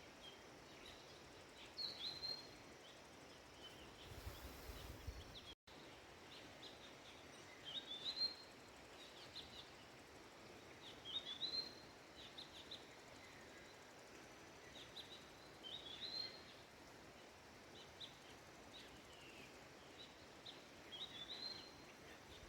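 A bird singing a short, high, chirping phrase again and again, about every three to four seconds, over faint steady outdoor hiss.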